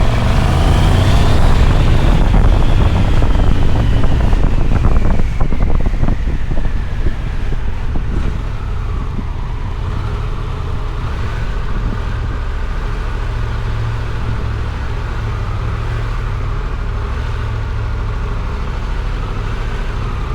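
Motorcycle being ridden, its engine and wind buffeting the helmet microphone; for the first several seconds it is louder and the engine's pitch falls steadily as the bike slows, then it settles into steadier, quieter running.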